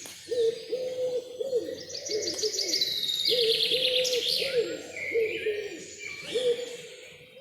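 Forest birds calling: a string of low, repeated calls sits under the high, fast trills and chirps of songbirds, with the trilling loudest mid-way.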